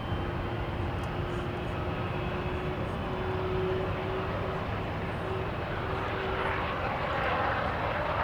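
Jet engines of a Cargolux Boeing 747-400F freighter running with a steady rumble and a held whine, growing louder near the end.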